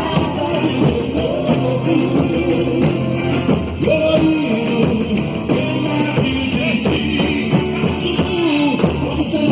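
Boi-bumbá toada played live: a drum and percussion section keeps a dense steady rhythm while a voice sings the melody over it.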